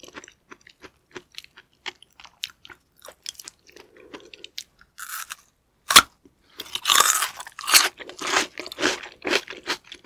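Close-miked mouth sounds of eating a chunk of yellow stingray liver dipped in sauce. Small wet clicks at first, then a sharp bite about six seconds in, followed by dense crunchy chewing.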